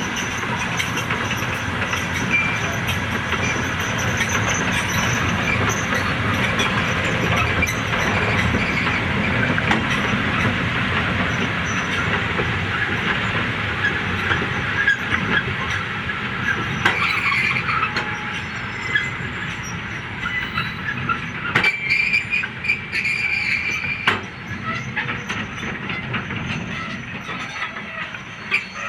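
Train rolling along the rails: a steady rumble and clatter of wheels, with a few short wheel squeals and metallic clinks in the second half.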